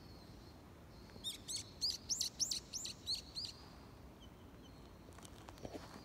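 A bird calling: a quick run of about eight sharp, high, arching notes lasting about two seconds, over a faint outdoor background.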